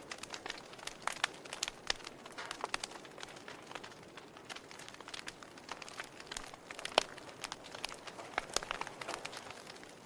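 Wood fire crackling in a fireplace: irregular sharp pops and snaps over a soft hiss, with one louder pop about seven seconds in.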